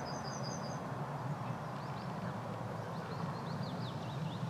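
Small birds calling over a steady low rumble: a short high trill in the first second, then a run of quick falling chirps.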